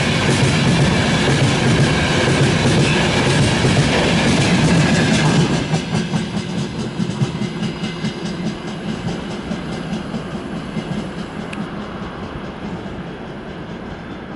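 A freight train's wagons roll past with rhythmic clickety-clack from the wheels over the rail joints. The noise is loud, drops sharply about five seconds in, and then fades as the train draws away.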